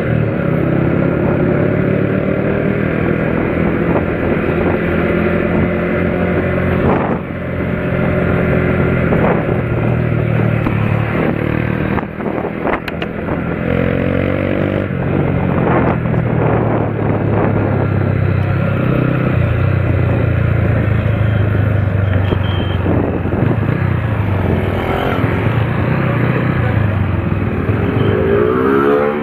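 Motor vehicle engines running steadily, with the revs climbing briefly a little after halfway and again near the end.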